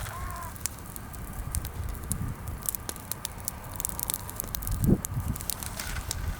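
Bonfire of freshly pruned green branches crackling with scattered sharp pops over a low rumble, burning weakly because much of the wood is green. A single low thud comes about five seconds in.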